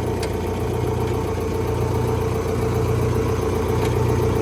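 Kobelco SK135SR crawler excavator's diesel engine idling steadily, with a couple of faint clicks.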